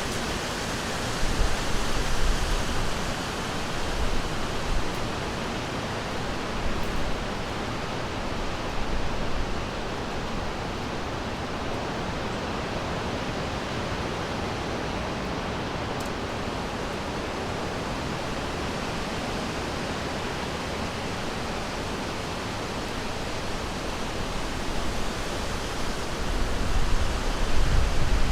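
River water rushing steadily, an even hiss with no bird calls standing out. Bouts of low rumble swell in near the start and again near the end.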